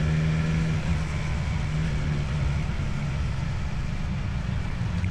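Motorcycle with an Akrapovič exhaust running at a steady engine speed, its exhaust note holding one pitch over a steady rush of noise.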